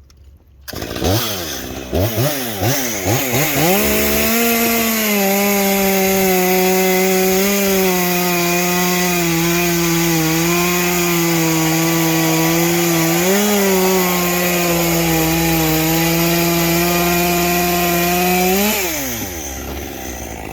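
Stock Stihl MS 201T top-handle two-stroke chainsaw started and revved up and down a few times. It is then held at full throttle through a cut, its pitch sagging a little under load and rising briefly once, before dropping back toward idle near the end.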